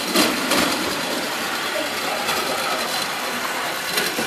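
Spring-driven clockwork mechanism of a Marx wind-up tinplate locomotive, a steady gear whir with a few clicks.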